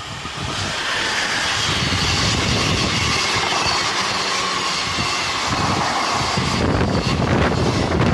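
Electric freight train, a BB 27000-class locomotive hauling empty car-carrier and flat wagons, passing close by: a steady rush and rumble of wheels on the rails that grows louder over the first second as it arrives. Sharp clattering knocks from the wagons come through in the last second or so.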